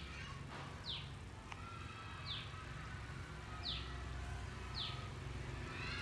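A bird calling in the background, four short high chirps that each fall in pitch, spaced about a second or so apart, over a low steady rumble.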